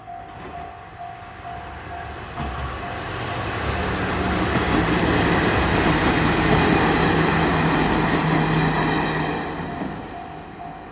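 A diesel railcar on the JR Tokushima Line passes over a level crossing. The train noise and engine hum build to a peak about midway and fade away. The crossing's warning bell rings in a repeating pattern at the start, is drowned out while the train passes, and is heard again near the end.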